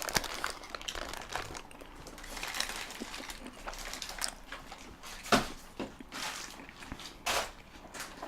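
Eating noises at a table: a paper chili-dog wrapper crinkling and soft bites and chews, with scattered short clicks, the sharpest about five seconds in.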